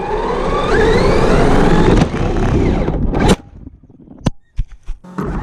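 Electric motor of a hobby-grade RC car whining higher and higher as it accelerates. After about three seconds it cuts off with a sharp knock, then a few sharp clicks follow. Near the end the whine starts climbing again.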